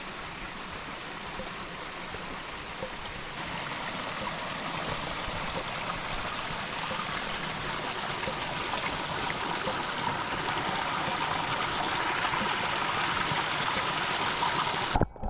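Rushing water, a steady hiss that grows gradually louder and is cut off abruptly near the end.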